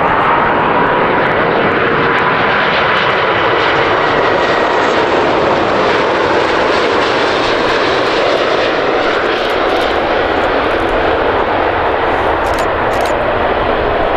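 Airbus A330-300 twin-jet airliner landing, its engines making a loud, steady rush with faint whining tones.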